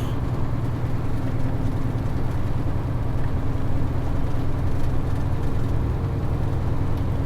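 Steady low drone of a truck's diesel engine and road noise, heard from inside the cab while driving.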